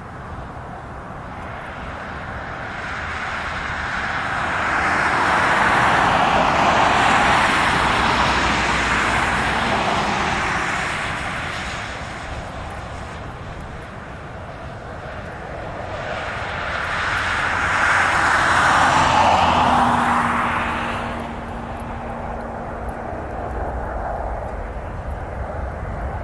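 Aircraft engines growing loud and fading away twice, as aircraft make two low passes overhead.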